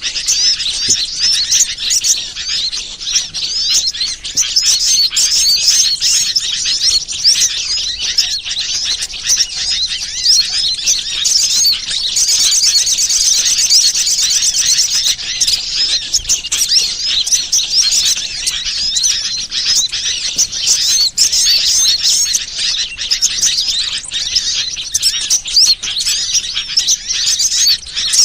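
Dense, unbroken high-pitched chirping and twittering of small birds, many rapid calls overlapping: a bird-lure (pikat) recording played to attract birds for catching.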